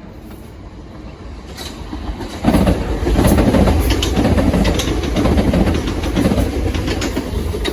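Southern Class 377 Electrostar electric multiple unit passing at speed: its sound grows as it approaches, turns suddenly loud about two and a half seconds in as it comes past, and carries on as a dense rumble with the wheels clicking over the rail joints.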